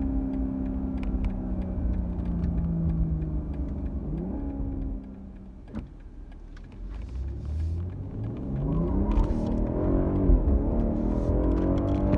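BMW M340i's turbocharged 3.0-litre inline-six: the engine note falls as revs drop, gives a brief rev blip, goes quieter for a moment, then climbs steadily under acceleration from about seven seconds in, with a gear change and the revs rising again near the end.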